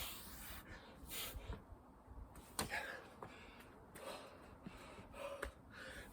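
A man breathing hard between sets of burpees and chin-ups, with a forceful, hissing exhalation about every second.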